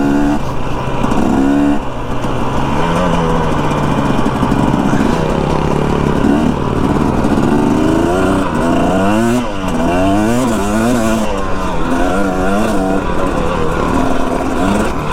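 Dirt bike engine running while riding, its revs rising and falling again and again with the throttle.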